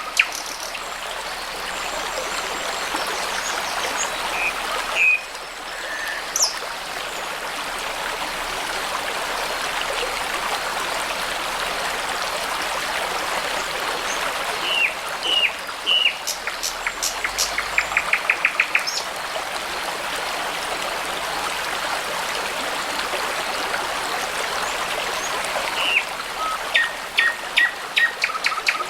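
A babbling brook's steady rush of water, with songbirds calling over it: a few notes about five seconds in, a burst of calls ending in a quick run of evenly repeated notes around the middle, and more calls near the end.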